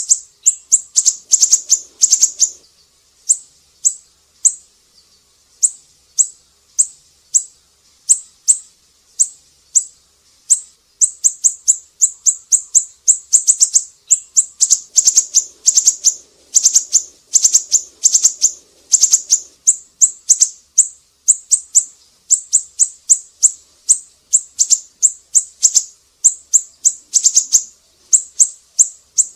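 Siri-siri bird singing vigorously: quick series of sharp, very high chirps in clusters, broken by short pauses.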